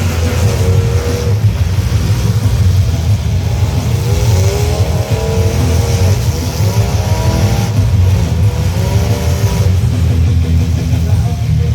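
Several truck engines running loud, their pitch rising and falling as they are revved.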